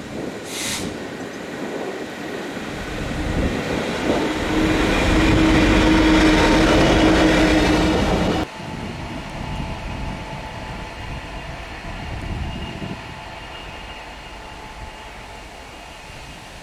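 A diesel train running past, growing louder to a steady drone with a held engine note, which cuts off abruptly about eight seconds in; a quieter rumble then fades away.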